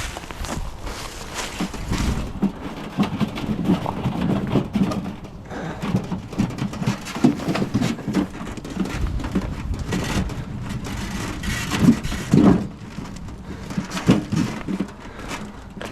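Split firewood being handled and loaded: irregular wooden knocks and clatters as pieces are tossed and stacked, with rustling and scraping between them.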